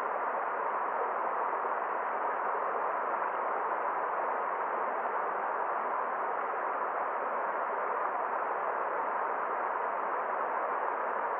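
Forest stream water flowing steadily, an even rushing noise that does not change.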